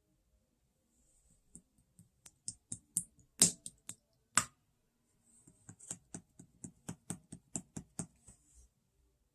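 Slime being pressed and squished by hand, making a string of sharp, sticky clicks and pops. The clicks are sparse at first, pause briefly, then come quicker from about five seconds in.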